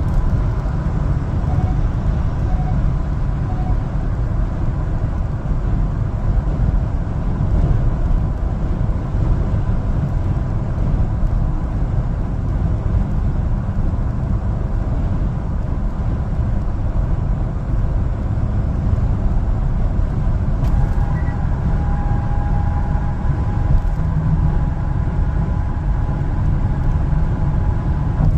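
A one-ton LPG cargo truck driving: engine and road noise as an even low rumble. Faint steady tones join about two-thirds of the way in.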